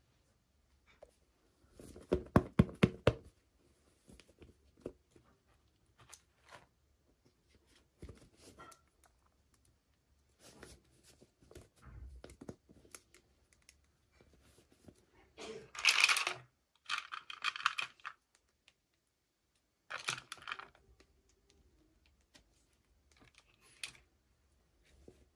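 Hands unboxing a toy: a quick run of clicks about two seconds in, scattered light taps, then tearing and crinkling of the packaging near the middle and again a few seconds later.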